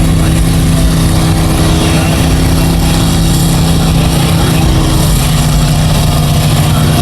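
Mega truck's big engine running loud at a steady pitch. The upper part of its tone drops out briefly about five seconds in, then returns.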